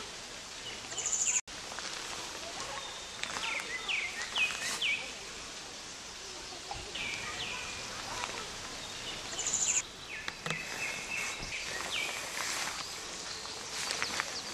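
Small birds chirping, with many short calls over a steady outdoor hiss, and a brief high trill twice.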